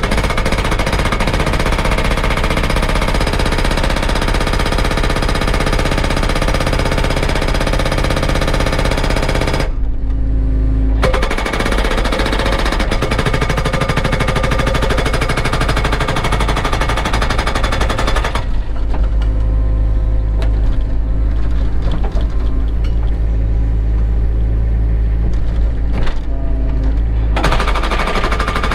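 Cat 307 excavator's diesel engine running with a rapid, even chugging pulse. The higher-pitched part of the noise drops away briefly about ten seconds in and again for most of the second half, then returns near the end.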